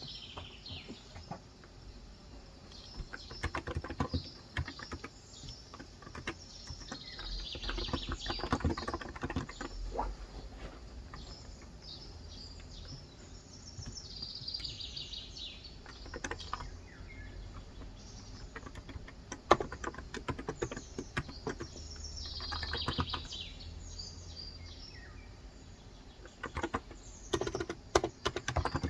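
Typing in bursts on a Cox Endeavor electro-capacitive (Topre-style) 35 g tenkeyless keyboard, with birds chirping again and again and a steady hiss of rain behind.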